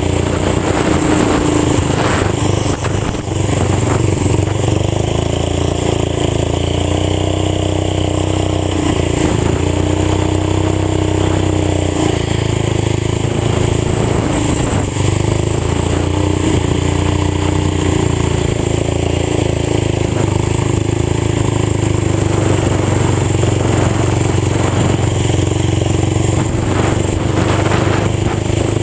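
Old tractor engine running loud through a fully open exhaust pipe, driven hard with its note rising and falling a little as the throttle and speed change; the sound dips briefly about three seconds in.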